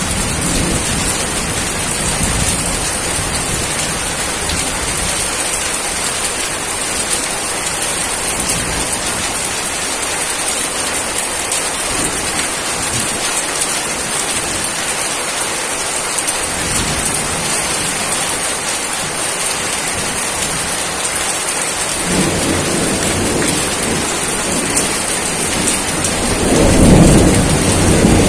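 Steady, heavy rain falling, with a low rumble of thunder that builds about three-quarters of the way through and grows loud near the end.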